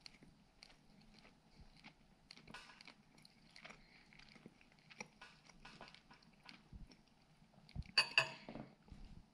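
Faint chewing of soft canned pink salmon with its skin: scattered wet mouth clicks and smacks, with one brief louder mouth or throat noise about eight seconds in.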